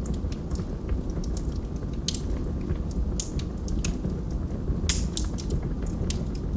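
Wood logs burning in a fireplace: a steady low roar of flame with irregular sharp pops and crackles, the loudest pops about two, three and five seconds in.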